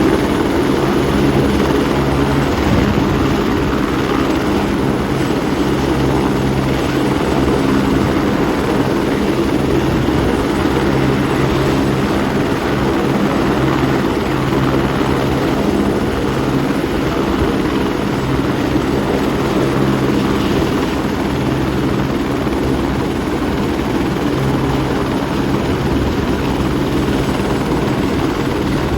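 Turbine helicopter running steadily, with a constant rotor and engine sound that neither rises nor fades.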